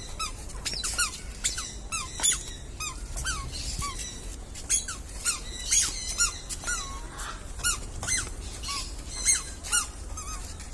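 Many small birds chirping together, a busy run of short squeaky chirps at several pitches, some sliding downward.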